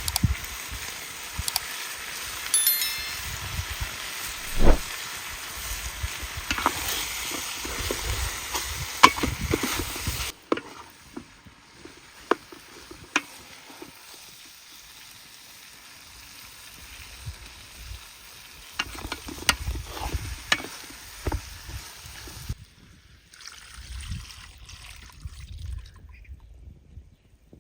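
Food frying in hot oil, a steady sizzle broken by sharp clicks and scrapes of utensils. About ten seconds in the sizzle cuts off suddenly, leaving scattered clicks and knocks of handling.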